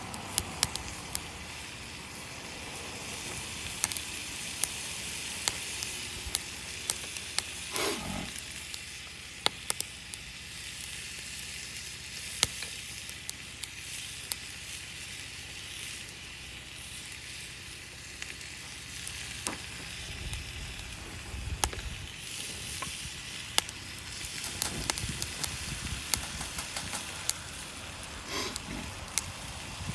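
Wood campfire burning: a steady hiss with frequent sharp crackles and pops, and a short gliding whistle about eight seconds in and again near the end.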